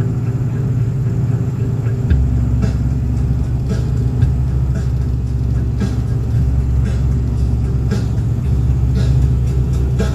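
Truck driving, with a steady low rumble of engine and road noise and occasional light knocks.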